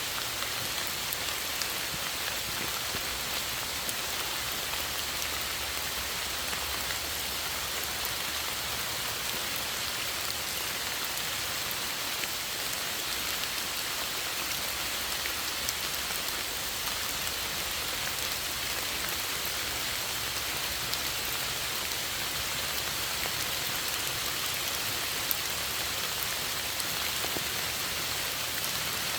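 Steady rain falling: an even, constant hiss with scattered small drop ticks.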